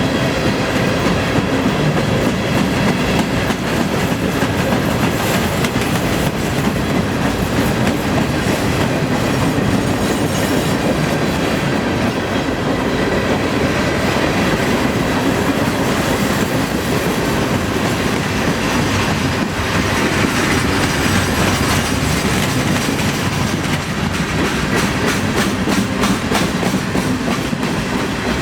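Freight cars of a long freight train rolling past at low speed: a steady rumble of wheels on rail, with wheels clicking over rail joints, most densely near the end.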